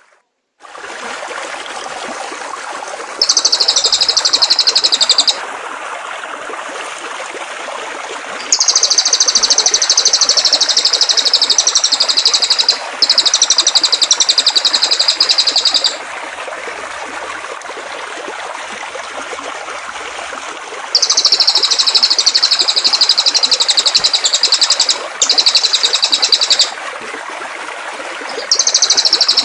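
A songbird singing in bouts of very fast, high-pitched chirping trills, each a few seconds long with short pauses between, over a steady rush of flowing water. The sound drops out for a moment at the very start.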